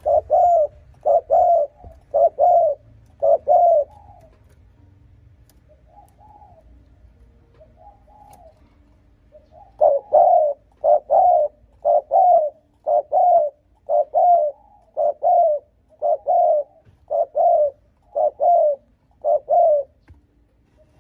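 Spotted dove giving its rapid cooing: short, low coos about one and a half a second. A first run of coos ends after about four seconds, two soft coos follow in a pause, and a long run resumes about halfway through.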